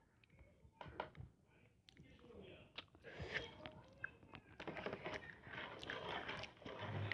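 Close-up mouth sounds of someone eating ramen noodles: wet chewing with scattered small clicks, busier in the second half.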